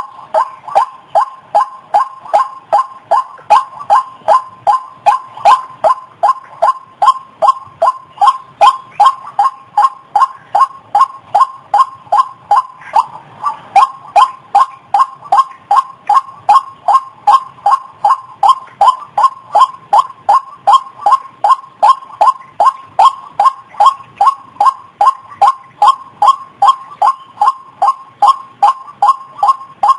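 White-breasted waterhen calling: a long, unbroken series of short, repeated croaking notes, a little over two a second, loud and even.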